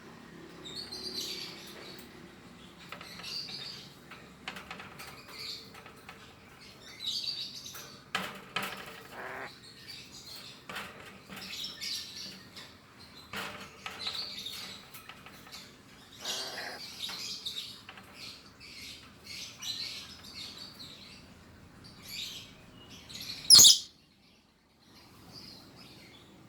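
Tame lory (nuri parrot) chirping over and over in short calls, with a few longer raspy calls. About three-quarters of the way through comes one sudden, very loud, sharp sound.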